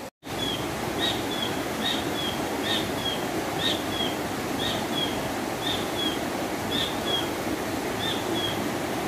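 A bird calling over and over, each call a short high note followed by a lower, falling note, repeated about once a second, over a steady rushing background.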